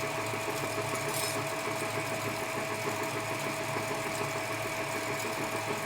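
Edgwick lathe running steadily under power, its carriage driven by the lead screw with the half nuts engaged: an even motor and gear hum with a constant whine.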